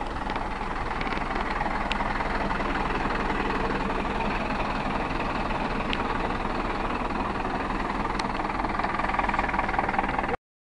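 A vehicle engine running steadily, with a few faint clicks over it. The sound cuts off abruptly near the end.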